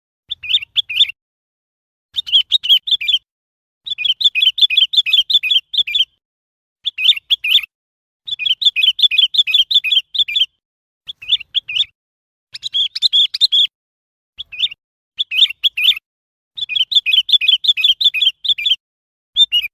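Sooty-headed bulbul calling: bouts of rapid chirping notes, each bout lasting one to two seconds, repeated again and again with short pauses between.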